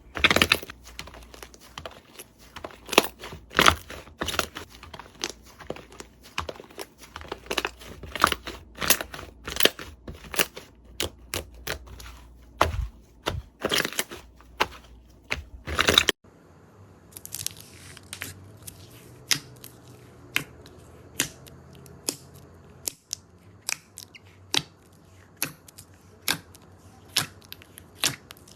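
Slime being squeezed and pressed, giving irregular crackling pops and clicks. About 16 seconds in the sound switches to a sparser run of sharp single clicks.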